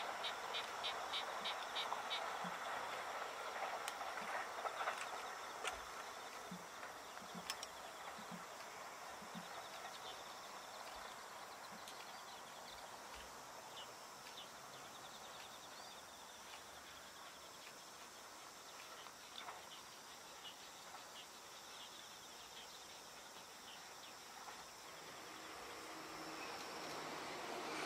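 A distant electric train's running noise fades away over the first few seconds. Insects chirp in quick high pulses over a quiet field. Near the end the rumble of another approaching train begins to rise.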